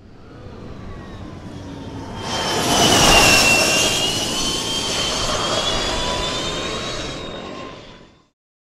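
Electric racing motorcycle passing at speed: a high-pitched whine from its electric motor and drivetrain over a rushing noise. It builds, is loudest about three seconds in, then eases and cuts off suddenly near the end.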